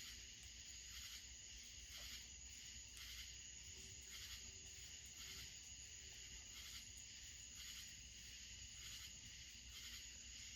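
Near silence with faint crickets chirping in a steady rhythm, roughly one chirp a second.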